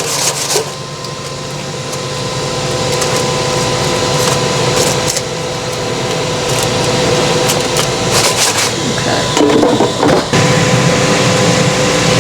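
Ninja air fryer running: a steady fan whir with a hum, growing louder over the first few seconds. Brief knocks and rubbing near the start and again about nine to ten seconds in.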